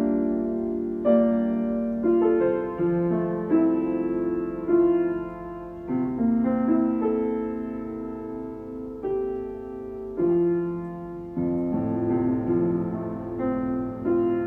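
Piano played slowly: a gentle melody over sustained chords, with a new note or chord struck about once a second and each left to ring.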